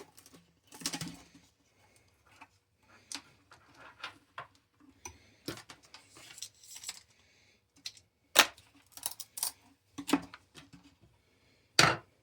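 Scattered clicks, taps and light rustling of the animatronic head's parts being handled, with two sharper clacks, one about eight seconds in and one near the end.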